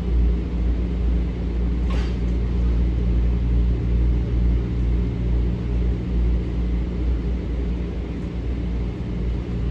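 Steady low rumble and hum inside a Metro-North M7A electric multiple-unit train car, with a single sharp click about two seconds in.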